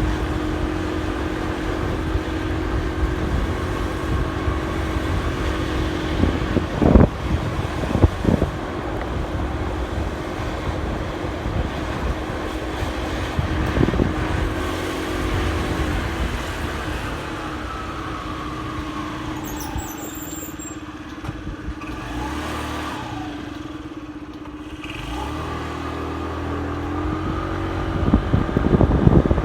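Motorcycle engine running steadily under the rider, with road and wind noise and a few short knocks. It goes quieter for a few seconds about two-thirds of the way through, then gets louder again near the end.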